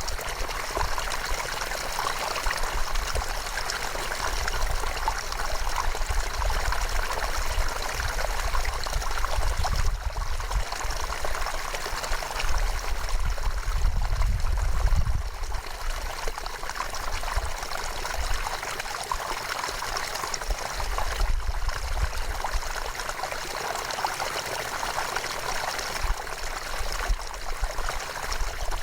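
River water running in a steady, even rush, with a low rumble underneath.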